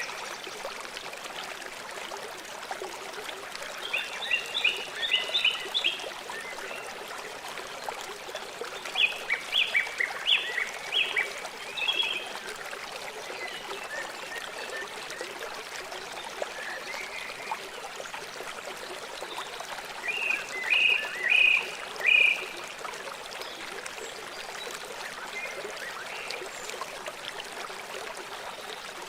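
River water flowing steadily, with three bursts of rapid, high-pitched chirping calls from a small animal over it.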